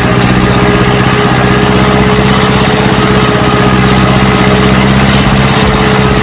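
Ursus C-360 tractor's four-cylinder diesel engine running loud and steady at an even speed.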